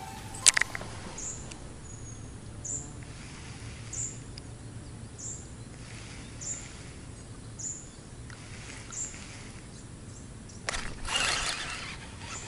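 A small bird repeating a short high chirp about once every second and a half over quiet riverside ambience. A single sharp click sounds about half a second in, and a short rush of noise comes near the end.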